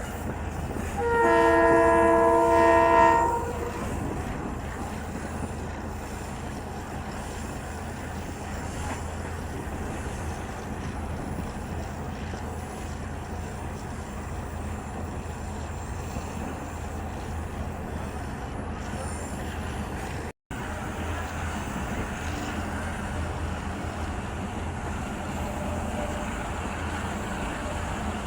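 Train horn sounding once for about two seconds, a chord of several steady tones, followed by the steady rumble of the train running.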